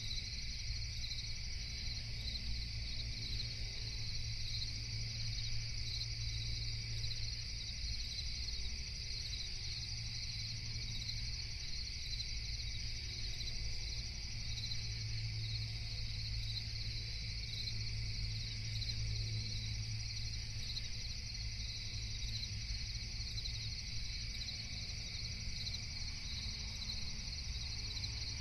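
A chorus of night insects, crickets, chirping steadily in a dense, high, pulsing trill, over a low steady rumble.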